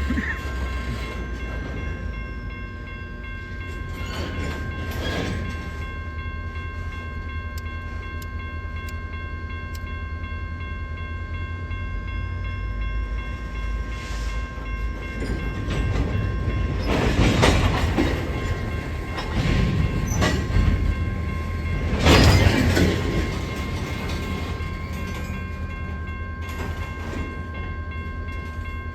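Train passing with a continuous low rumble and a steady whine, swelling with louder surges of wheel and car noise about four seconds in and twice more later on.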